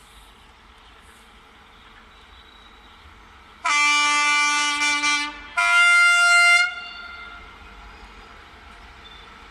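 Train horn sounding two blasts, a long one and then a shorter, higher-pitched one.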